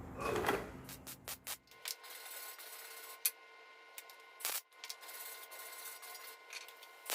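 Welding arc on an aluminium diesel fuel tank. It gives a steady buzzing hiss, broken by scattered sharp pops and crackles, on metal that is contaminated with diesel oil.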